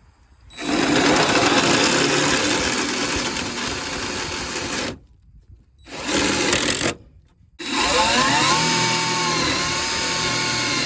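Power drill run in three bursts, each stopping abruptly: a long one, a short one, then another long one that rises in pitch as it spins up and then holds steady.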